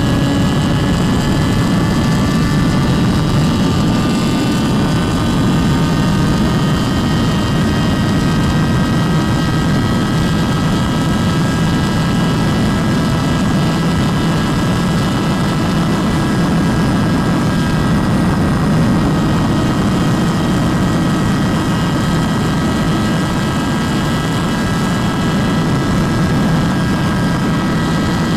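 Motorcycle running at high speed, its engine whine climbing slowly in pitch over the first several seconds and then holding steady, under heavy wind rush.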